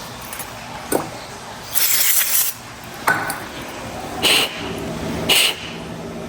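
Short hissing blasts blowing gunk out of a small pressure washer part's passage: one longer blast, then two quick ones, with a couple of sharp metallic clicks between them.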